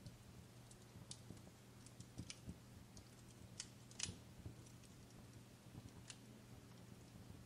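Wood fire crackling faintly: sparse, irregular pops, the loudest about four seconds in.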